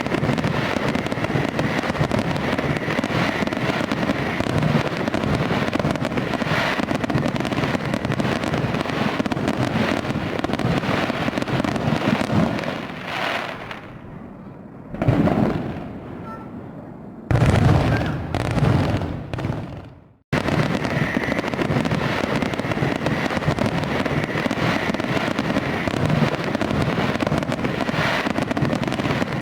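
A fireworks display: a dense, continuous barrage of crackling and bangs, easing off briefly past the middle before a loud burst. About twenty seconds in the sound cuts off abruptly and starts again at full level.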